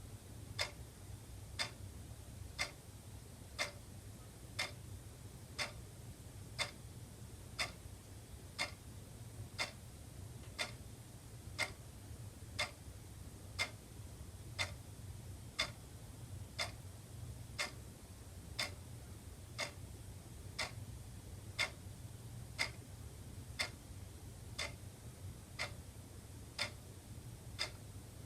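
Wall clock ticking with a steady, regular tick-tock.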